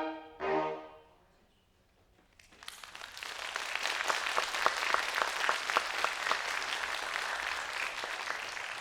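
A brass ensemble's last short chord cuts off within the first second. After a brief silence, audience applause starts about two and a half seconds in, builds quickly and carries on steadily with many separate claps.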